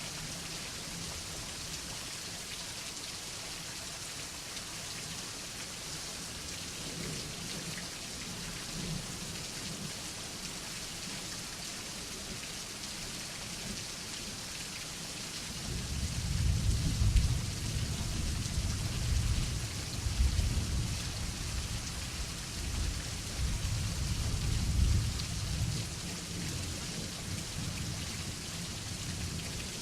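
Steady rain falling. About halfway through, a long roll of thunder rumbles in low, swells and fades out over some ten seconds.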